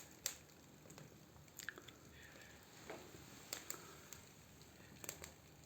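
Faint, irregular crackles and snaps of the first small fire catching in a newly built fireplace, over a low hiss.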